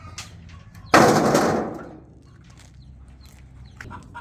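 A sudden loud crash about a second in, dying away over most of a second.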